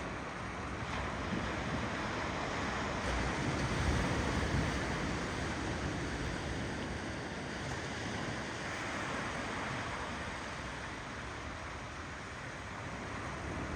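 Ocean surf rolling in: a steady wash of waves that swells about four seconds in and slowly eases off.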